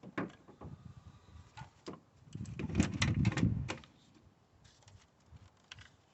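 Irregular clicks and knocks of hand tools and engine parts being handled, with a longer rustling shuffle about halfway through.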